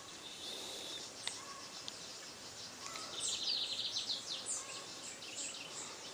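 Wild birds chirping and calling over faint outdoor background noise, with a quick run of rapid high chirps about three seconds in and a single sharp click about a second in.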